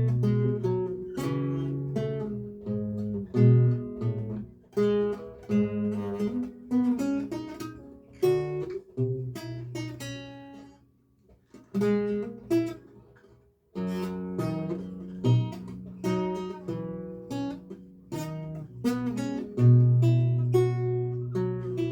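Solo lute playing a recercar in practice: plucked single notes and chords. About ten seconds in the playing stops and the last notes die away for about three seconds before it starts again.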